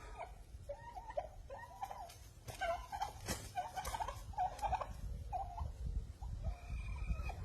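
Domestic turkeys calling in quick runs of short, chattering notes, with a few sharp taps about halfway through and a low rumble underneath.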